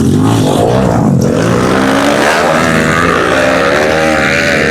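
Pit bike engines revving as the bikes race past, the pitch rising and falling with throttle and gear changes.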